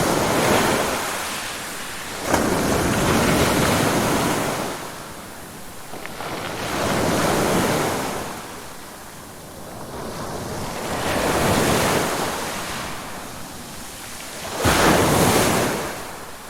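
Ocean waves breaking and washing back, swelling and fading about every four seconds, with a sharper crash about two seconds in and another near the end.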